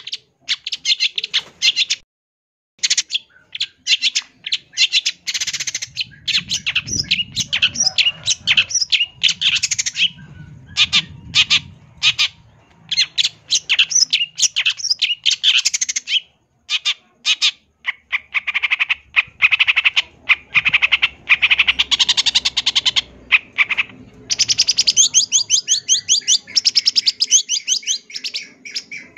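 Long-tailed shrike singing a fast, varied run of harsh chattering notes and mimicked phrases, with a short pause about two seconds in and rapid trilling near the end.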